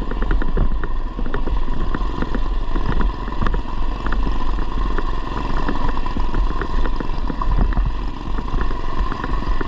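Mini bike's Predator 212cc single-cylinder four-stroke engine (stage-2 build with stock cam and piston, fitted with a header muffler) running steadily under way, with many short clicks and clatter over the ride. A heavy wind rumble on the microphone is present throughout.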